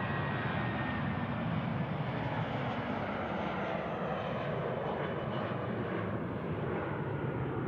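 Jet engines of a departing Airbus A320 airliner, a steady broad engine noise as it climbs out, its high hiss thinning toward the end as it pulls away.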